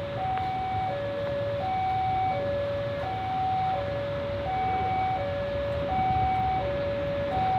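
Two-tone electronic warning signal switching steadily between a low and a high note, each held a little over half a second, over a low engine rumble.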